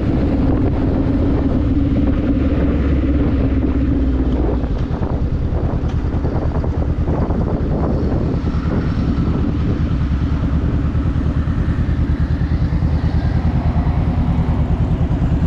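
Motorcycle engine running under way, with wind rushing over the camera microphone. About four and a half seconds in the engine note drops and carries on at lower revs with a more pulsing beat, as when the rider eases off the throttle.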